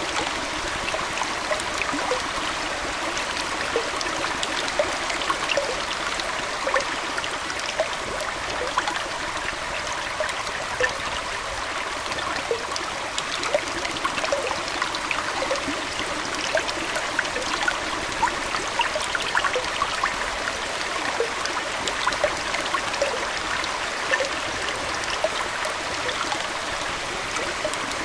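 Aquarium water trickling steadily, dotted with many small quick pops and drips.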